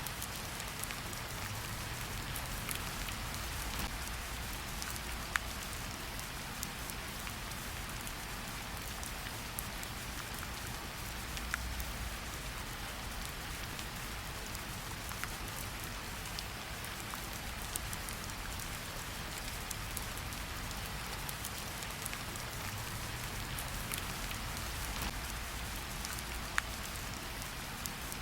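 Steady rain falling in a forest, an even hiss of rain with scattered individual drops ticking sharply, a few louder ones standing out.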